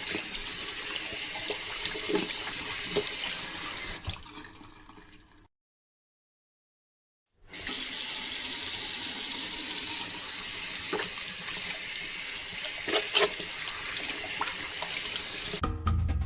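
A steady stream of water pouring and splashing. It fades out about four seconds in, stops completely for about two seconds, then starts again with a few sharp clicks, the loudest about thirteen seconds in.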